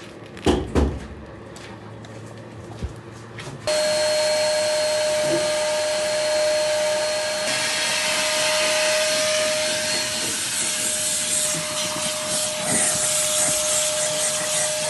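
A few knocks, then a motor-driven machine starts suddenly and runs steadily with a high whine over a loud hiss.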